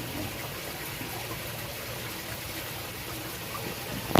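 Steady rush of running water, with a sharp click near the end.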